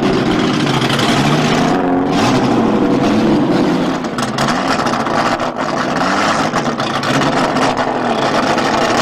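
BMW 3 Series touring race car's engine revving, its pitch rising and falling again and again.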